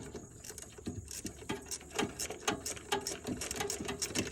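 Socket ratchet clicking in quick, uneven strokes as the hose clamp on a fuel line is tightened.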